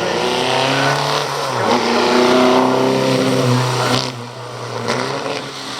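Vintage Bugatti racing car accelerating hard up the hill, its engine note rising. About a second and a half in there is a gear change, and it climbs again. About four seconds in the engine suddenly cuts back to a lower, quieter note.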